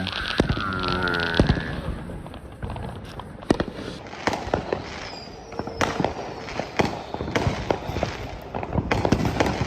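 Consumer fireworks going off: a string of sharp bangs and pops at irregular intervals, with crackling in between.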